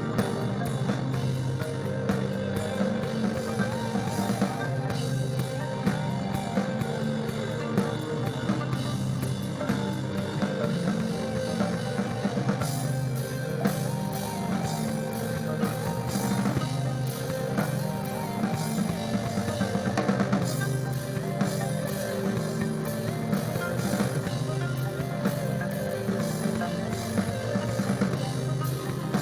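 Instrumental psychedelic rock band playing live: drum kit, bass and electric guitar.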